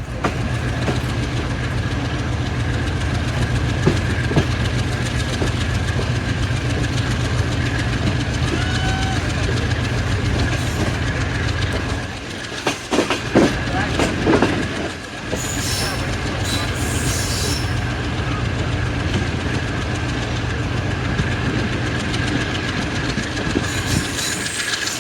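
Passenger train behind an AGE30 'Blue Tiger' diesel locomotive running, a steady deep rumble with a constant high whine over it. About halfway, the rumble dips for a few seconds under a run of sharp knocks.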